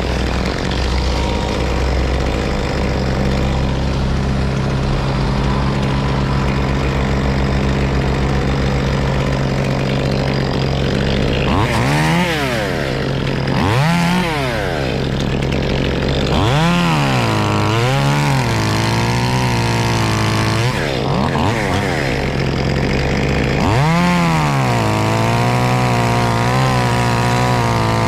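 A chainsaw revving up and falling back to idle again and again, about six times in the second half, over the steady drone of another running engine.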